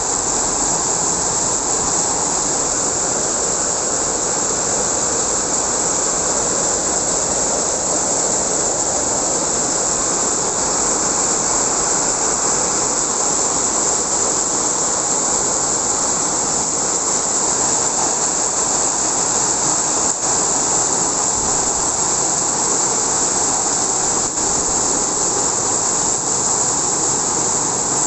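Heavy rain falling in a strong wind, a loud, steady, dense hiss of downpour.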